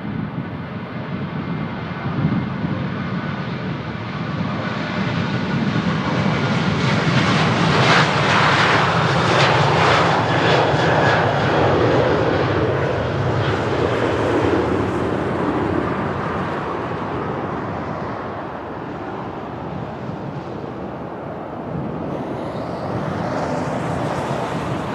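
Alaska Airlines Boeing 737 jet engines on departure, the roar swelling to its loudest around the middle and then slowly fading as the jet climbs away.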